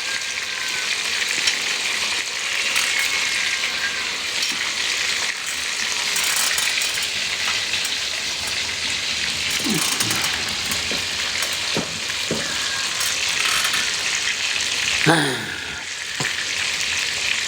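Food pan-frying in hot oil, a steady sizzle, with occasional stirring in the pan.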